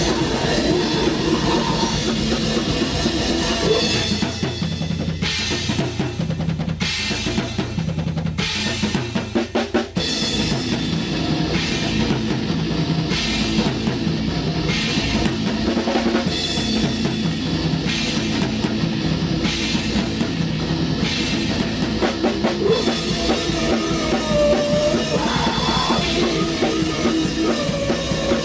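Black metal band rehearsing: a drum kit with bass drum and cymbals under a dense wall of loud band playing. About halfway through, the playing settles into a steadier part with a cymbal crash about every second and a half, then thickens again near the end.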